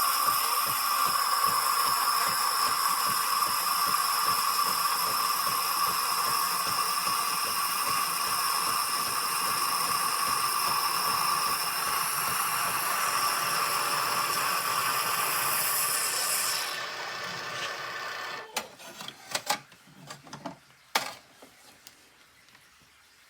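Krups Sensation C50 bean-to-cup coffee machine running through a brew cycle: a steady mechanical whirr with a high whine and rattle that drops about 17 seconds in and stops soon after, followed by a few sharp clicks and knocks from the machine.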